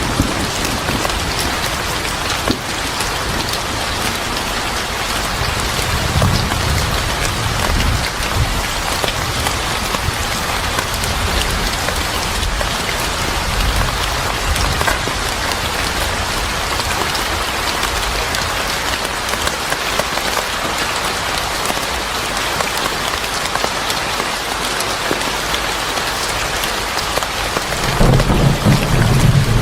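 Steady heavy rain falling on a surface, with low rumbles of thunder, one swelling about six seconds in and another near the end.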